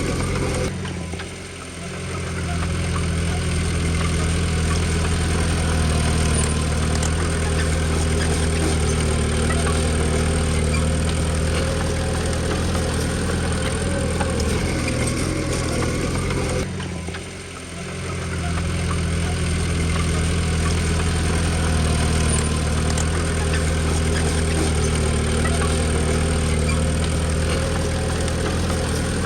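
Diesel engine of a Komatsu D20P bulldozer running steadily, with a brief drop in level about a second in and again about halfway through.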